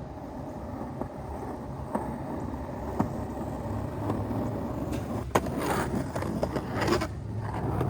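Skateboard wheels rolling on pavement: a steady rumble with sharp clicks over joints, a harder knock a little past five seconds in, and a louder, rougher roll after it.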